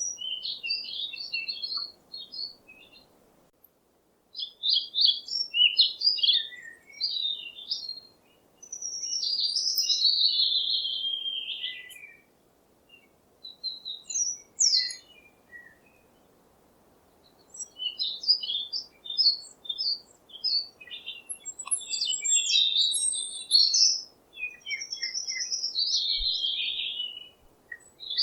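Songbirds chirping and singing in quick, varied high-pitched phrases, coming in bursts with short pauses between them.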